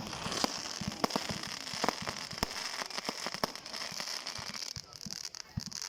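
Fireworks crackling: a dense, irregular scatter of small sharp pops and snaps over a steady high hiss.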